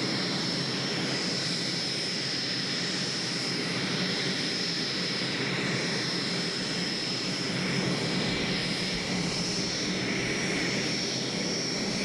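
Gas-turbine engines of a pulling tractor running hard: a loud, steady rushing sound with a constant high whine on top.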